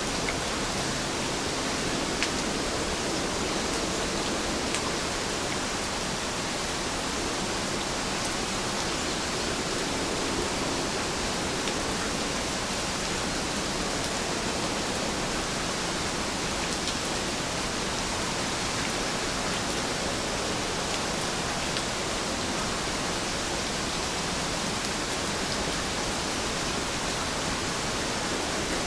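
Heavy rain falling steadily: a dense, even hiss, with the odd single drop ticking out of it.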